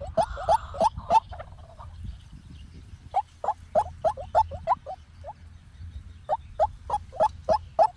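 White-breasted waterhen calling: rapid runs of short, rising notes, about three or four a second, in bursts broken by short pauses.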